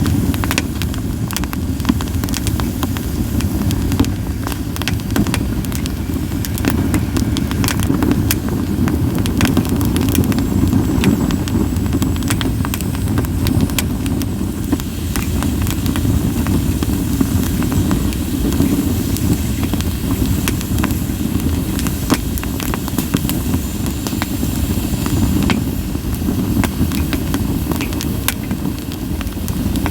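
Campfire of split sawtooth oak (kunugi) firewood burning: a steady low rumble of flame with frequent sharp crackles and pops. A faint high hiss from the burning wood comes in for a few seconds about ten seconds in.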